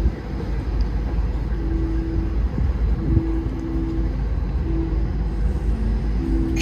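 Steady low rumble of a cruise ship under way, heard from on deck with wind on the microphone. Short faint hums come and go over the rumble.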